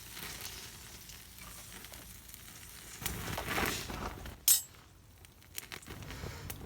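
Wagyu steak sizzling on a small iron griddle over a campfire, the sizzle swelling about three and a half seconds in. A sharp, loud metallic clink follows about a second later, then a few lighter clicks.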